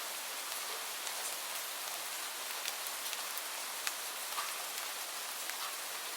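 Steady rain falling on a surface, a continuous hiss with scattered individual drops ticking sharply over it.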